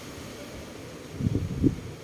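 Strong wind with a steady hiss, and low rumbling gusts buffeting the microphone about a second in.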